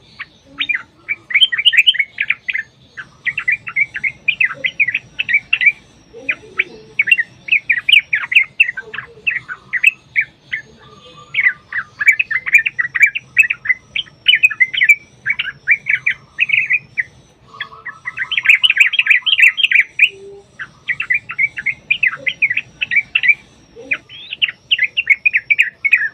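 Yellow-vented bulbuls singing in long, rapid phrases of quick bubbling notes that tumble one after another with only short gaps. This is the excited, fighting-style song that is used to provoke other bulbuls into answering.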